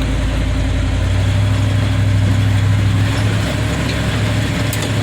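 A motor vehicle's engine running steadily, with a low hum that grows stronger about a second in, over tyre and road noise.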